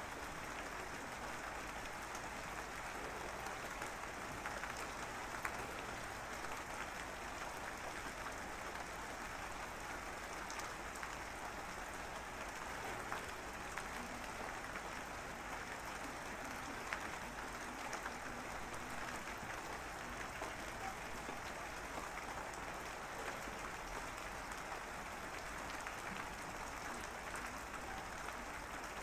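Rain falling steadily: an even hiss of drops with faint scattered ticks.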